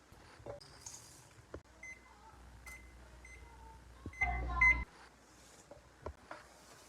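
Electronic beeps from a kitchen appliance's control panel, most likely an oven being set for baking, with light clicks from handling. A few short single beeps come first, then a louder burst of beeps over a low hum about four seconds in.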